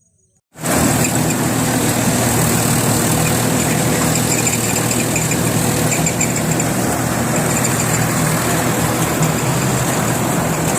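Mahindra rice combine harvester running, its engine and machinery making a loud steady drone with a high whine over it, starting abruptly about half a second in.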